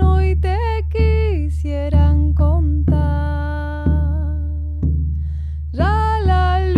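Music: a voice singing a wordless, gliding melody over a caja, the Andean frame drum, struck in a steady beat about once a second. The voice pauses briefly near the end while the drum keeps time.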